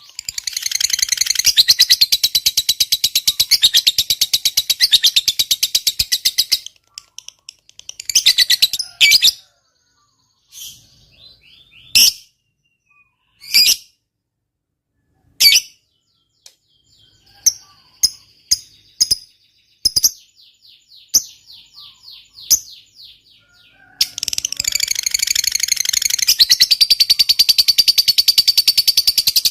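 Lovebird ngekek: a long, rapid, high-pitched chattering trill. It breaks off after about six seconds into scattered short chirps and squawks, and a second long chattering trill starts about three-quarters of the way through. This long ngekek is the song that fanciers play to other lovebirds to prompt them to sing.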